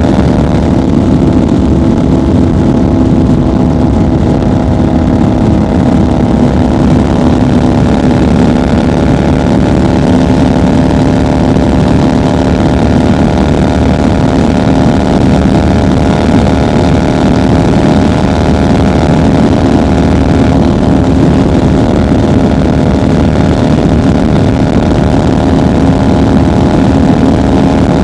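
1990 Harley-Davidson FXR's 1340 cc Evolution V-twin running steadily at highway cruising speed, its exhaust note holding an even pitch.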